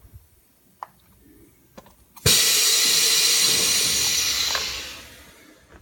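Compressed air hissing from a pneumatic duct folding brake as it actuates: a few faint clicks, then a sudden loud hiss of air about two seconds in that holds for a couple of seconds and fades out near the end.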